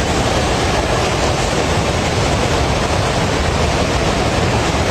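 Loud, steady roar of a flooded river in torrent, rushing water.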